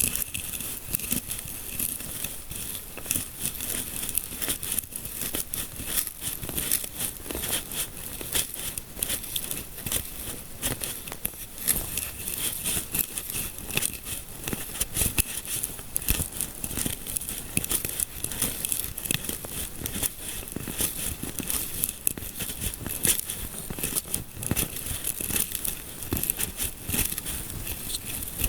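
Fingers rubbing and scratching through hair close to the microphone, a continuous crackling made of many tiny scratches.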